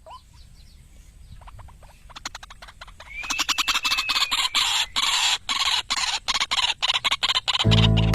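White-breasted waterhen (ruak-ruak) calls from a bird-lure recording: a fast run of harsh clicking notes that becomes much louder about three seconds in. Guitar music starts near the end.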